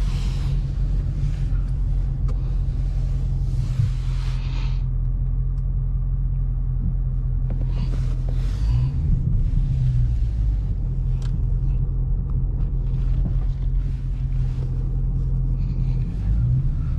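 Dodge Scat Pack's 6.4-litre HEMI V8 running at low speed, a steady low drone that rises briefly in pitch twice, about halfway through and near the end. A few short bursts of hiss sound over it.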